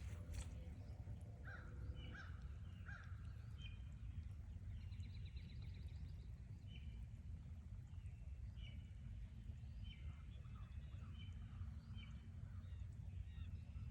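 Wild birds calling on a forest trail: many short chirps and whistled notes, with a brief rapid trill about five seconds in, over a steady low rumble.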